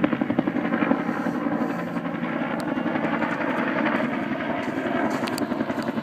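Firefighting helicopter's rotor beating rapidly as it comes in low over the lake to take on a load of water. The beat smooths into a steadier noise in the middle and pulses again near the end.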